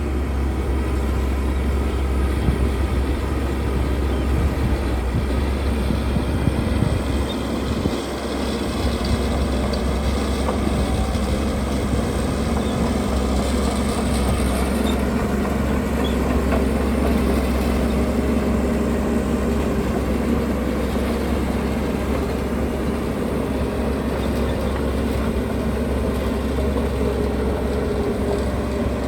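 Diesel engines of heavy earthmoving machinery, bulldozer and dump truck, running steadily under work with a deep, continuous drone.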